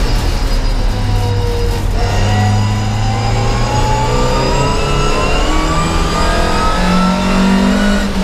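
Volvo 544 race car's four-cylinder engine heard from inside the cabin, at full throttle. About two seconds in the note breaks for a gear change, then the revs climb steadily through the gear.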